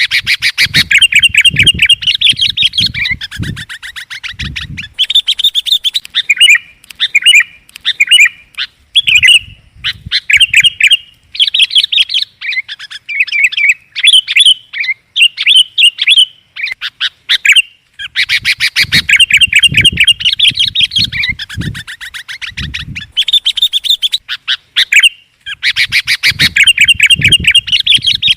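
Sooty-headed bulbul (Kutilang) calling loudly: long bursts of rapid stuttering chatter alternate with short bubbly, warbled phrases.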